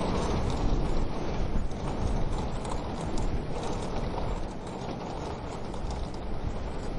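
Wood fire crackling in a wood-burning stove: small irregular snaps and pops over a steady low rushing noise.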